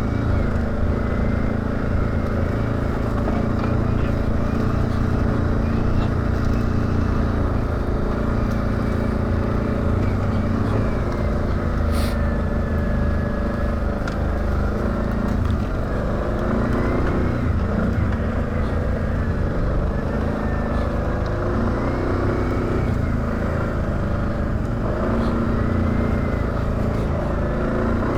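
ATV engine running steadily at low trail speed, with a faint whine that rises and falls gently as the throttle changes. A single sharp click or knock about twelve seconds in.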